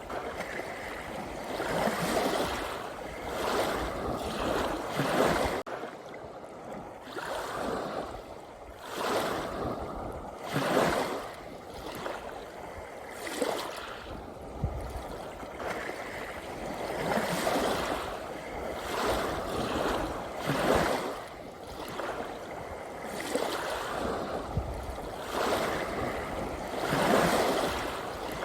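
Ocean waves washing in and out as a continuous surf noise that swells and eases every second or two.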